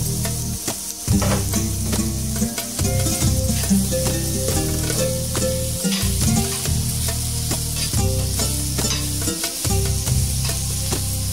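Chicken sisig sizzling and frying on a hot iron sizzling plate, with a metal spoon scraping and stirring it in frequent short strokes. Background music plays underneath.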